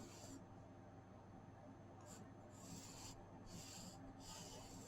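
Faint strokes of a pencil drawing lines on paper, about five short scratchy passes.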